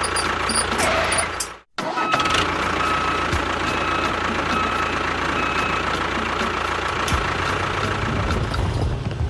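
A steady, vehicle-like engine running, broken by a brief dropout about a second and a half in. From about two seconds in, short beeps come about once a second, like a reversing alarm, and a deeper hum joins near the end.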